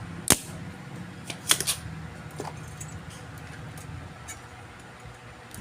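A few sharp clicks and taps of small hand tools handled on an electronics workbench, over a low steady hum. The loudest click comes near the start, with a quick cluster of clicks about a second and a half in.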